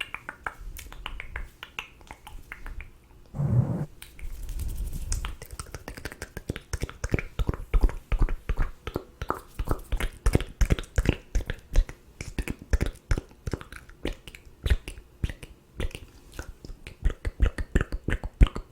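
ASMR mouth sounds close to the microphone: rapid, irregular wet mouth and tongue clicks, with a brief low voiced sound about three and a half seconds in.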